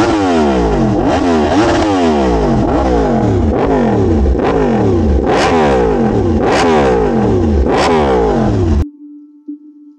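Yamaha R1M's crossplane inline-four engine revved over and over, the revs climbing and falling back about once a second, with three sharper peaks near the end. It cuts off suddenly about nine seconds in, leaving faint music tones.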